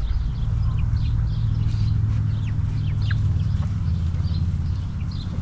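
A hen clucking and chicks peeping in short, scattered, falling calls, over a steady low rumble.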